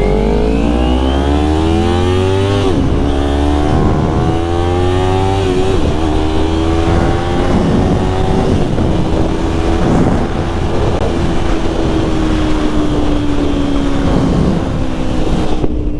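Motorcycle engine pulling away and accelerating, rising in pitch, with an upshift about two and a half seconds in and another climb before settling into a steady cruise. Wind rushes over the microphone throughout.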